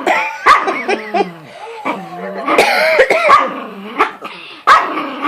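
Dog barking and whining in a run of calls that slide up and down in pitch, demanding the water bottle held in its owner's mouth.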